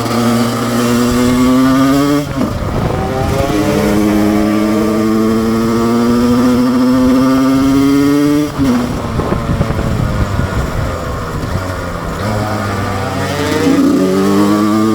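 2007 Husqvarna SM 125 two-stroke engine pulling hard under acceleration, its pitch climbing steadily through each gear. The pitch drops sharply twice, about two seconds in and again past the eight-second mark, as the rider shifts up, then climbs again near the end.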